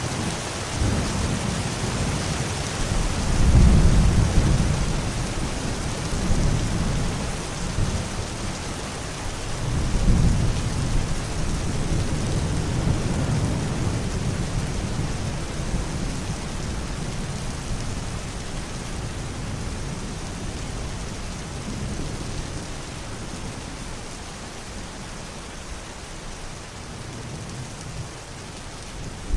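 Thunderstorm: steady rain with rolling thunder. Loud rumbles swell about three and a half seconds in and again about ten seconds in, then the thunder fades to a low grumble under the rain.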